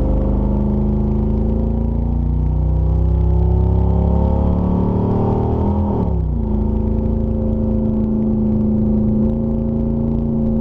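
Small-block Chevy 350 V8 on open headers with no mufflers, heard from inside the car, accelerating with its pitch climbing steadily. About six seconds in the pitch drops sharply as the automatic transmission upshifts, then it holds a steady note.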